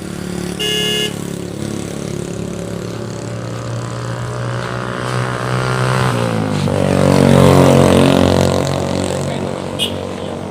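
A short horn beep, then a motor vehicle's engine passing close by. It grows louder, drops in pitch about six seconds in, and is loudest a couple of seconds later before fading.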